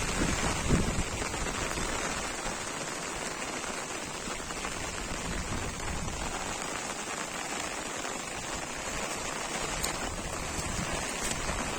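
Heavy rain falling steadily, an even hiss of drops on the ground and surfaces. Wind buffets the microphone with a low rumble in the first second or so.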